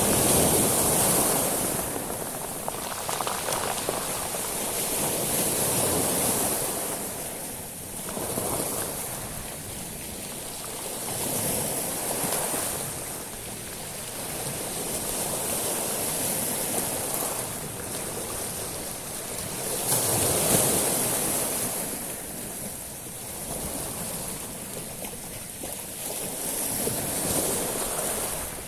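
Sea waves washing up and back over a beach of small stones (shingle), the surge swelling and fading every few seconds, with a high hiss of water running through the pebbles.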